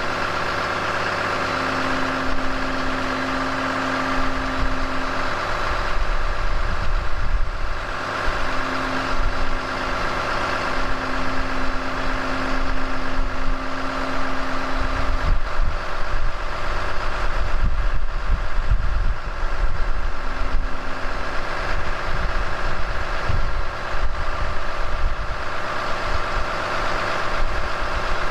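2018 Ram 5500's 6.7-litre Cummins inline-six turbo diesel idling steadily while still cold from a 0°F start with no block heater, only the preheat cycle. A steady low tone sounds over it on and off during the first fifteen seconds or so and once more briefly about twenty seconds in.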